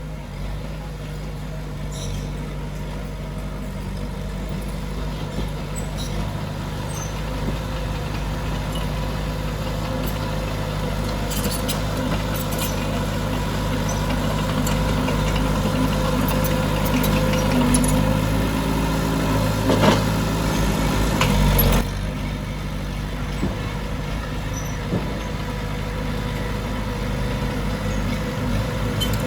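Heavy diesel earthmoving machine's engine running steadily and slowly growing louder. About twenty seconds in, it works harder for a few seconds, then eases off abruptly.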